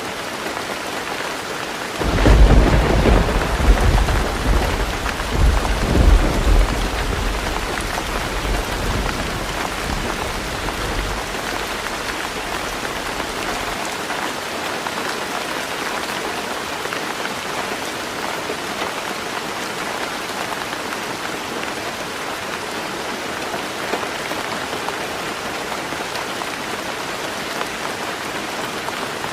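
Heavy rain drumming steadily on a tin roof. About two seconds in, a thunderclap breaks in and rolls as a deep rumble in several swells, then fades away over the next ten seconds or so, leaving only the rain.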